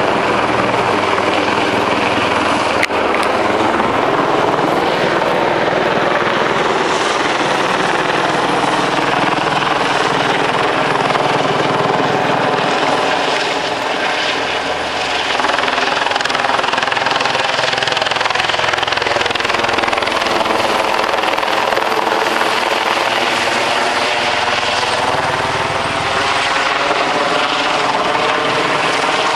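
Helicopter hovering, its rotor and engine running steadily and loud, with a slow swirling shift in tone as it holds position.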